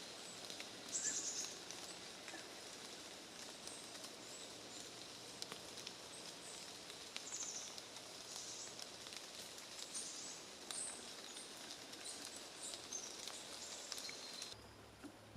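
Outdoor woodland ambience: a steady background hiss with short high bird chirps every few seconds and faint scattered clicks. The background changes abruptly near the end.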